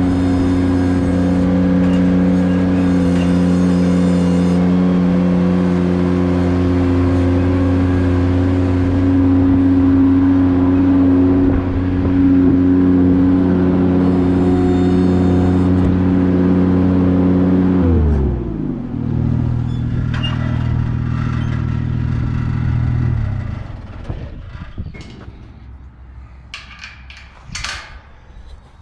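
Ventrac 4500 compact articulating tractor's engine running steadily at high throttle. About two-thirds of the way through it is throttled down to a lower idle, and a few seconds later it shuts off, leaving a few light clicks and knocks.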